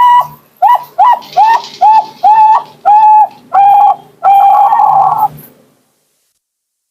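Bangkok-type perkutut (zebra dove) singing its long cooing song close to the microphone: a run of about nine clear coos, each drawn out a little longer than the one before, the last the longest, stopping about five and a half seconds in.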